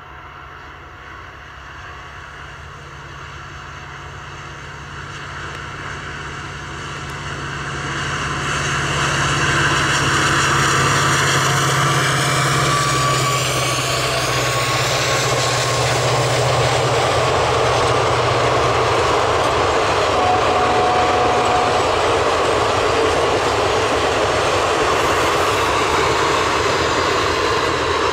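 Long passenger train passing on the rails. It grows steadily louder over the first nine seconds or so as it draws near, then holds as a steady rolling rumble of coach wheels on the track.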